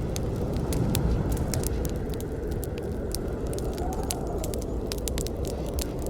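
Campfire burning: frequent, irregular sharp crackles and pops of burning wood over a steady low rumble of the flames.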